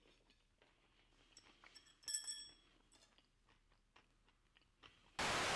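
Faint chewing of a cauliflower-rice sushi roll, mostly near silence with small scattered clicks. A short, bright metallic ring comes about two seconds in, and a steady hiss starts near the end.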